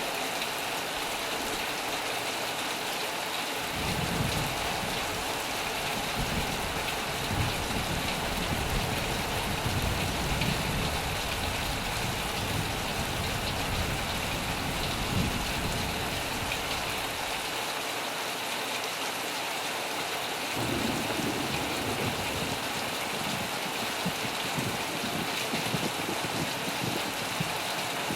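Heavy rain falling steadily, with low thunder rumbling beneath it. The rumble starts about four seconds in, dies away around seventeen seconds, and returns about twenty seconds in.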